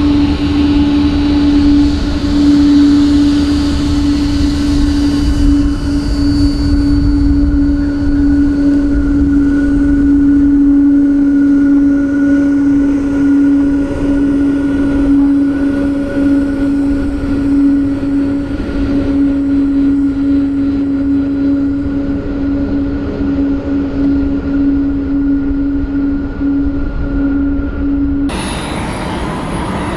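Jet airliner engines running at low power: a steady drone with a strong hum over a low rumble. Near the end it switches abruptly to a noisier rush with a high whine.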